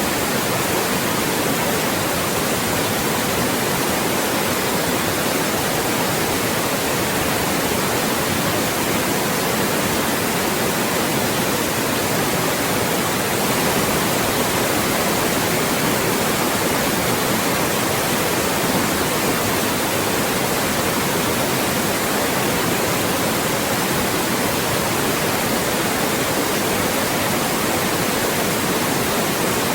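Loud, steady generated white noise: an even hiss that does not change.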